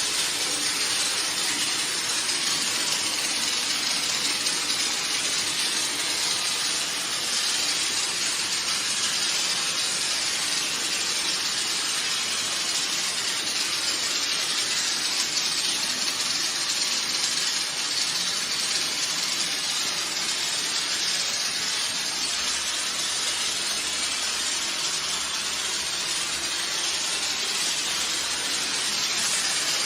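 Car wash sprayer spraying water onto a carpet, a steady unbroken hiss.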